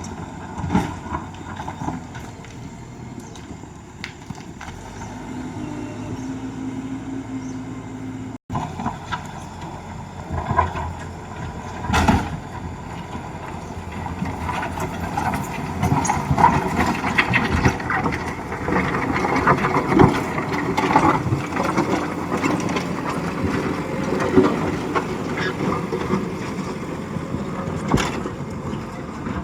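JCB 3DX backhoe loader's diesel engine running as the machine works, with sharp metallic clanks from the bucket and arms, and a busier stretch of clattering partway through.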